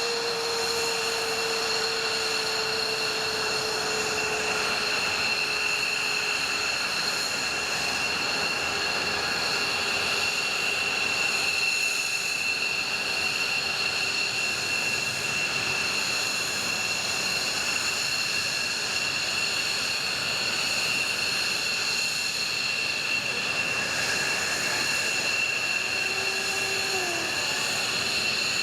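F-15J fighter's twin F100 turbofan engines running at low power, a steady high-pitched whine over a broad rush. A lower tone slowly falls in pitch over the first several seconds.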